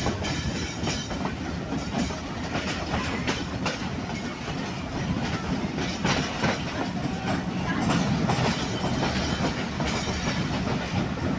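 Passenger train rolling along the track: a steady low rumble with irregular clicks and clacks of the wheels over rail joints.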